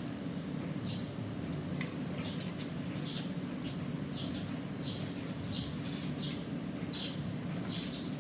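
A small bird chirping over and over, short high chirps that drop in pitch, roughly one or two a second, over a steady low hum.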